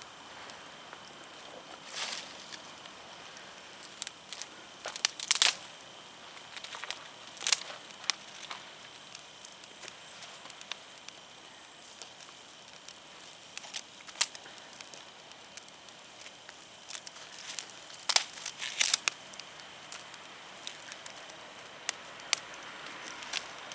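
Wood fire crackling: irregular sharp pops and snaps over a faint steady hiss, with a few louder clusters of pops.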